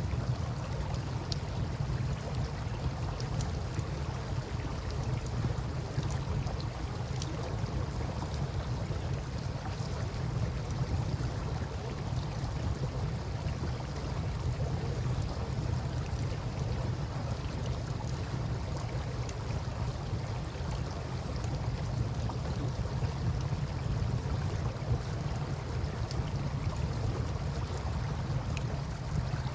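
River water with a wood campfire beside it: a steady wash of flowing water over a strong low rumble, with a few faint, scattered crackles.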